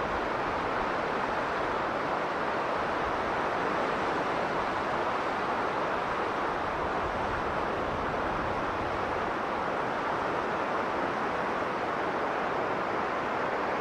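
Strong blizzard wind blowing as an even, unbroken rushing noise, centred in the middle range with little high hiss, with no gusts or breaks standing out.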